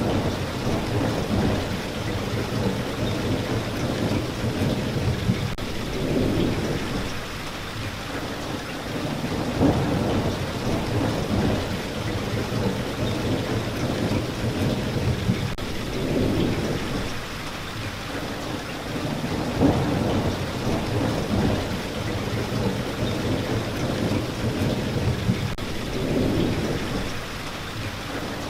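Steady rain falling, with low rumbling swells that rise and fade every few seconds beneath the hiss.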